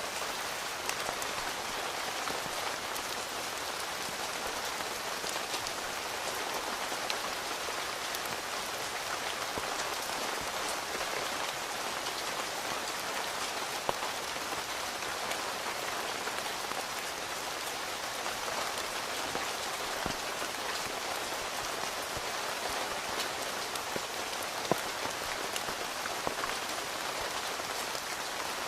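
Steady rain pattering on a tent, with individual heavier drops ticking sharply now and then.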